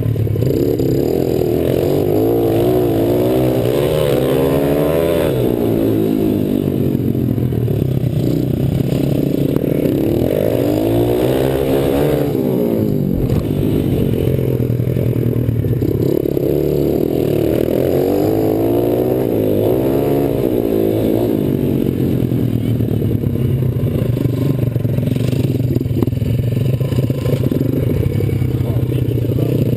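Pit bike engine running and revving up and down as it is ridden, its pitch rising and falling in several swells.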